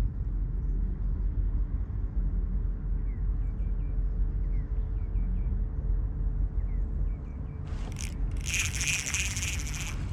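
Steady low outdoor rumble with faint short bird chirps, then about eight seconds in a loud insect call starts, a high buzz coming in short repeated pulses.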